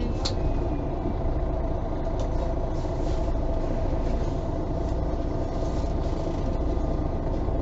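MAN Lion's City G articulated city bus heard from inside the passenger cabin: a steady low engine and drivetrain rumble with a level whine running under it and a few faint rattles.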